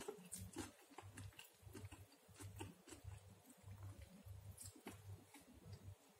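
Quiet, close-up chewing of a soft napa cabbage pancake: a steady rhythm of about two chews a second, with small wet mouth clicks and smacks.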